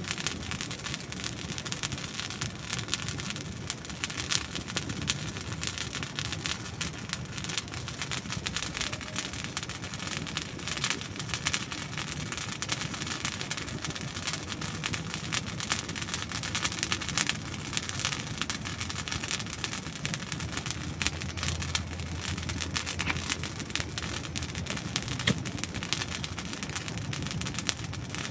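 Wood fire burning steadily, with a dense run of small crackles and sharp pops over a low rushing hiss of the flames.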